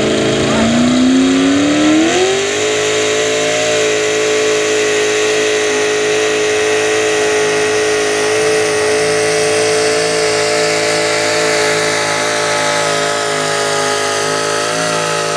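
Super stock two-wheel-drive pulling truck's engine at full throttle pulling a sled: the revs climb over the first couple of seconds, then hold steady at high rpm, rising slightly again near the end.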